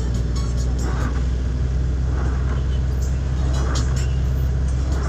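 Steady low rumble of a car on the move in the rain, with a noise that comes back about every second and a bit.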